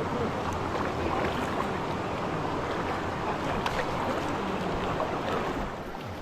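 River water rushing and splashing against a raft in the rapids, with small splashes scattered through it.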